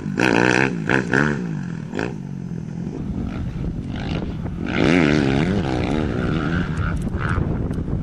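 Motocross bike engines revving hard and easing off over and over, the pitch swinging up and down as they pass along a straight. The sound is loudest in the first two seconds and again about five seconds in.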